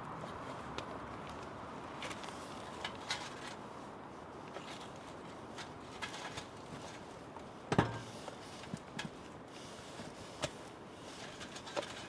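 Open-fire cooking: scattered small clicks and taps over a steady hiss, with one sharp knock about eight seconds in.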